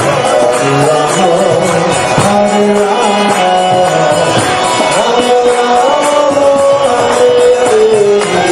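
Devotional chanting music: a sung melody over jingling hand cymbals or tambourine keeping a steady beat.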